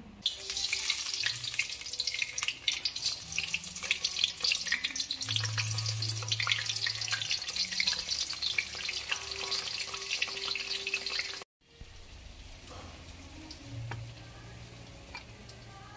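Slabs of tofu frying in hot oil in a wok: a steady sizzle full of fine spitting crackles, which stops abruptly about three-quarters of the way through. Faint light knocks follow.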